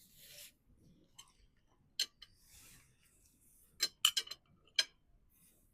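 A person eating at close range: quiet chewing with several sharp clicks and crunches, one about two seconds in, then a quick cluster around four seconds and one more just after.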